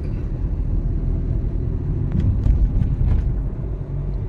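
Steady low rumble of a moving car heard from inside the cabin of a Maruti Suzuki Ertiga: engine and road noise, with a few faint clicks partway through.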